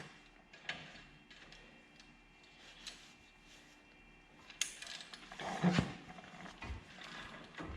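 Wrench and socket on a 21 mm brake caliper bracket bolt as it is broken loose: a few faint clicks, then a sharp click and a louder clunk about six seconds in.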